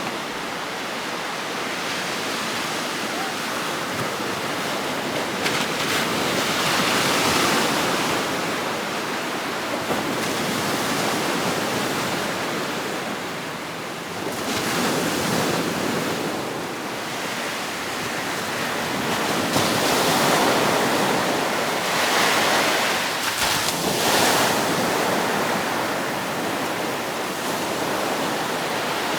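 Gulf of Mexico surf breaking and washing up on a sandy beach, the rush of the waves swelling and easing every few seconds.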